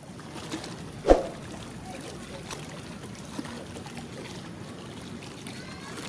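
Low background noise with faint distant voices and scattered small clicks, broken by one short, loud knock about a second in.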